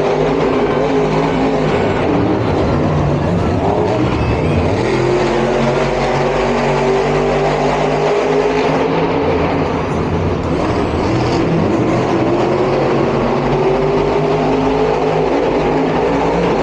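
Monster truck engines running hard and revving, several at once, their pitch rising and falling over and over.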